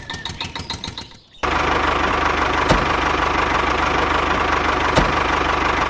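Rapid even clicking, then an engine sound starts abruptly about one and a half seconds in and runs steadily. Two sharp knocks come partway through.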